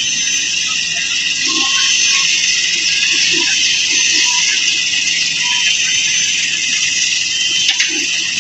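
Kobelco excavator's diesel engine running steadily at idle, under a loud, steady, high-pitched hiss, with a few faint knocks near the end.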